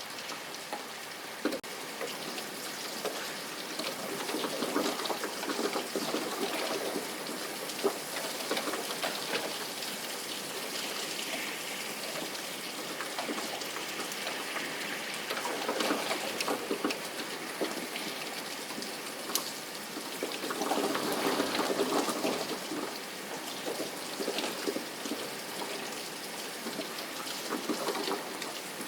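Steady rain falling, swelling louder a few times.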